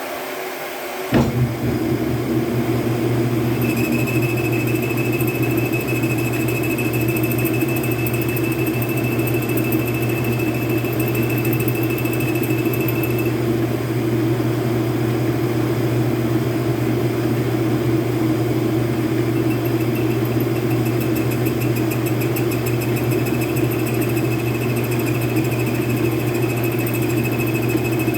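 Metal lathe's motor switched on about a second in and then running steadily with a deep hum. A thin high whine joins a few seconds later, drops out around the middle and comes back wavering near the end.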